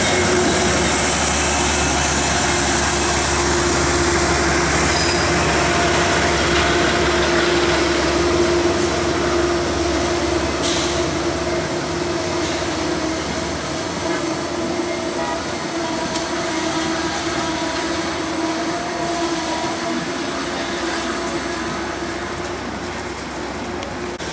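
Diesel-hauled passenger train, led by a GE Genesis P32AC-DM locomotive, moving through the station. Its steady engine and rail noise carries a held hum and slowly fades.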